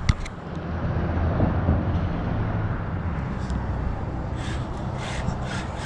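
Dodge Charger R/T's 5.7 HEMI V8 idling with a steady low rumble, with a few light knocks in the second half.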